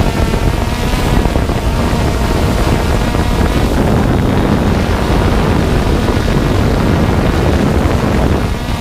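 Strong wind buffeting the microphone: a loud, unbroken low rumble, with a faint steady hum of several tones underneath.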